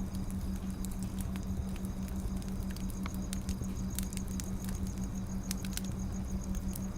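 Firewood burning, with irregular sharp crackles and pops over a low rumble. A steady low hum runs underneath.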